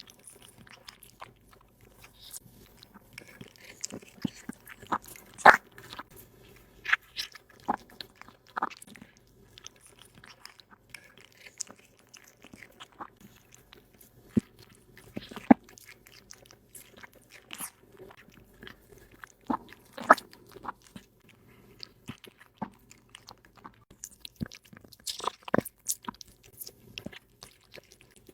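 A cat chewing and crunching its food, with irregular sharp crunches coming in clusters.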